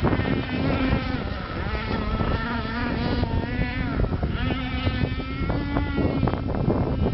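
Small motor on a racing model boat whining at high pitch, its pitch wavering up and down as the throttle changes.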